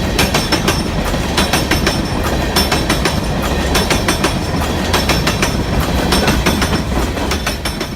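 Railroad cars rolling past, a steady rumble with wheels clicking over the rail joints.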